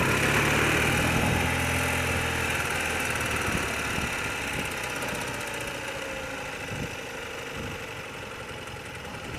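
Motor vehicle engine idling in slow traffic: a low, steady engine hum, strongest in the first couple of seconds and then slowly fading, under a constant hiss.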